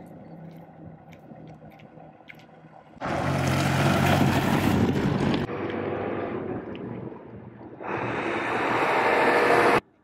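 Motorcycle engine running under a rush of wind noise, in several short shots joined by abrupt cuts. The wind noise is loudest in two stretches, one a few seconds in and one near the end.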